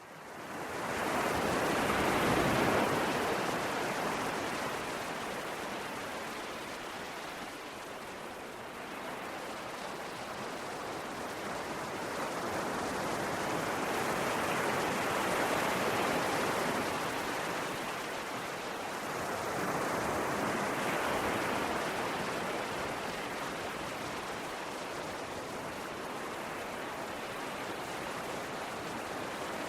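Ocean surf: a steady rush of breaking waves that swells and eases slowly. It rises from silence at the start, with stronger surges about two seconds in, around fifteen seconds and around twenty-one seconds.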